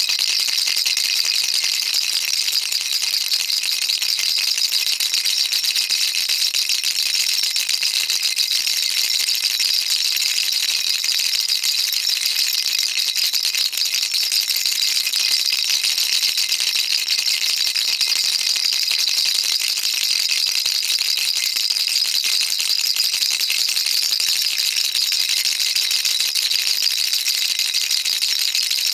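Baby rattle shaken continuously, its small beads rattling in a fast, even stream with no pauses.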